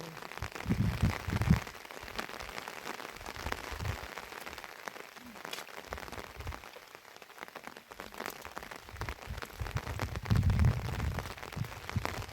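Heavy rain pattering densely on a surface. Low rumbling gusts come in about a second in and again around ten seconds in.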